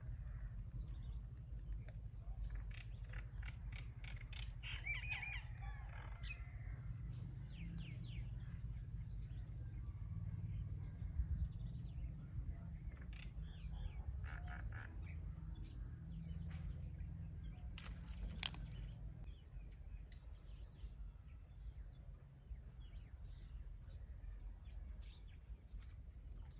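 Small birds chirping and twittering in short, scattered calls, over a steady low rumble, with one sharp click about eighteen seconds in.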